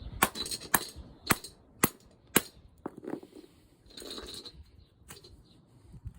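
Hammer striking the nut threaded onto the end of a Renault Clio driveshaft, driving the CV joint onto the shaft splines past the compressed circlip. Five sharp, evenly spaced blows about half a second apart, then a few lighter knocks and some handling noise.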